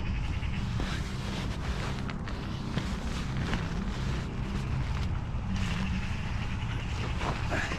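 Low rumble of wind on the microphone, with scattered crackles and rustles.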